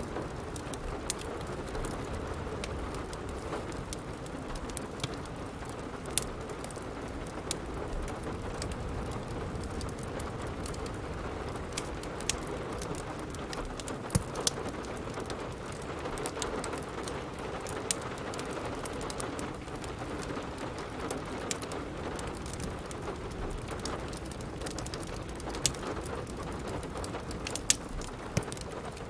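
Steady rain falling, with a wood fire in a fireplace crackling over it in scattered sharp pops, a few of them louder than the rest.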